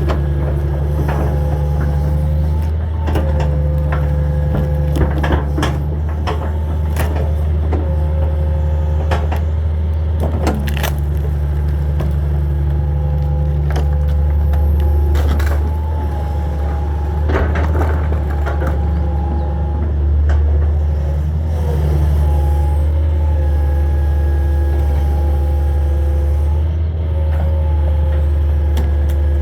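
Diesel engine of a Hitachi 225 22.5-ton excavator running under load, with a hydraulic whine that shifts in pitch and repeated cracks and knocks of wood debris being grabbed and crushed.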